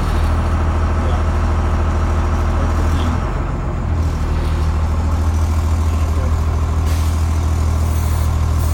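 Cummins turbo diesel engine of a Blue Bird bus running with a deep, steady drone. The note dips and shifts briefly about three seconds in, then settles back.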